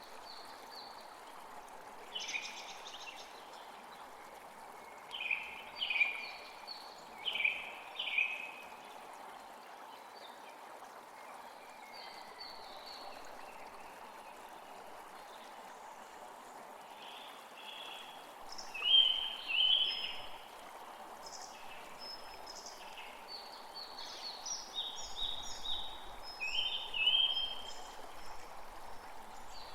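Wild birds calling in short bursts of quick repeated chirps, loudest in two bouts, early on and again over the second half, over a steady rushing background noise.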